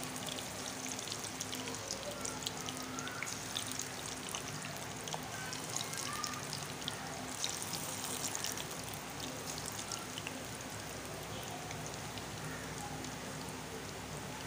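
Cauliflower kofta balls frying in hot oil: a steady crackle and sizzle of many small pops as the oil bubbles around them.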